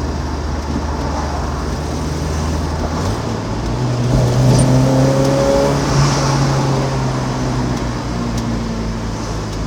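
Car engine running with its ignition timing off. About three seconds in, the engine note steps up and holds higher for several seconds with induction noise as the throttle opens, sounding fast while making little power.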